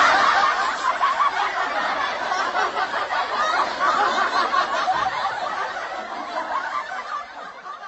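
Many people laughing and chuckling together, like a laugh-track sound effect, fading out gradually toward the end.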